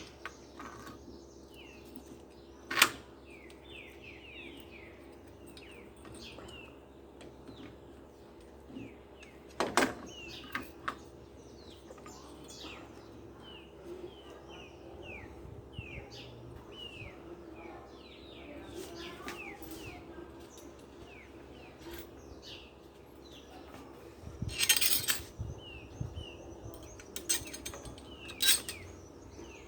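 Birds chirping over and over in short falling chirps, with a few sharp metallic clinks and knocks, as of small metal parts or tools being handled, and a steady low hum underneath.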